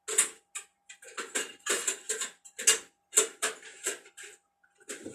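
Clattering and clicking of electronic devices and circuit boards being handled and rummaged through, a quick irregular run of sharp knocks with a short pause near the end. A faint steady high hum runs underneath.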